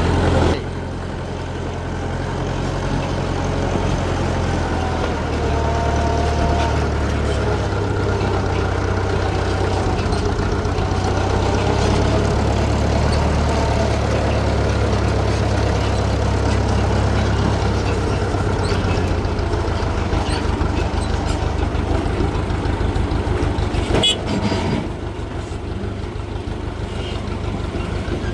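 A heavy engine running steadily with a deep rumble, its beat becoming an even, fast pulsing in the second half, with one sharp knock about 24 seconds in.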